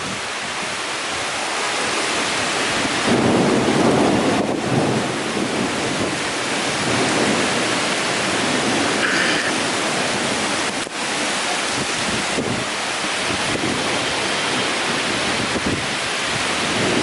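Heavy rain pouring down in a steady hiss, with strong wind gusting; it swells louder about three seconds in.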